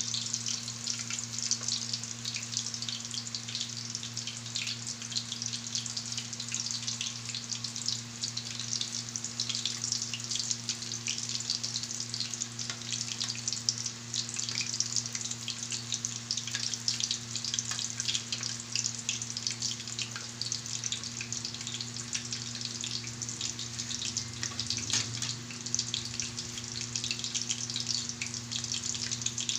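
Breaded chicken roulades deep-frying in hot oil in a pan: a steady crackling sizzle with many small pops, over a low steady hum.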